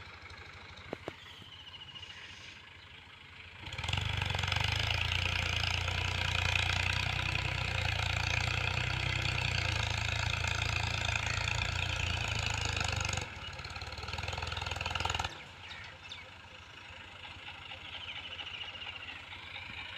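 Al Ghazi 65 hp tractor's diesel engine running, working a heavy-duty cultivator. It is moderate at first, grows much louder about four seconds in for roughly ten seconds, then falls back.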